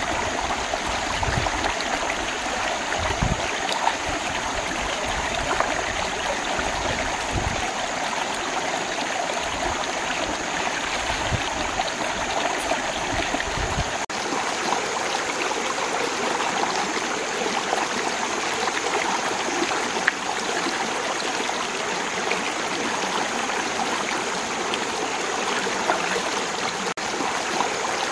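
Steady rushing of a stream's running water, with some low thumps in the first half.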